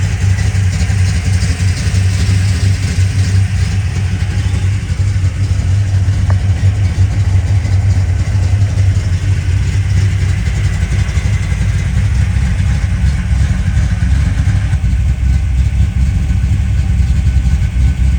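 1970 Oldsmobile 442 race car's V8 engine idling steadily, a loud, even, low-pitched exhaust note.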